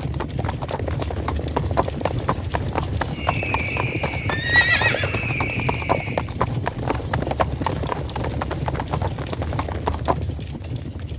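Stampede of galloping hooves: dense, uneven hoofbeats over a low rumble, with a horse neighing about three to six seconds in. The hoofbeats thin out and the rumble drops near the end.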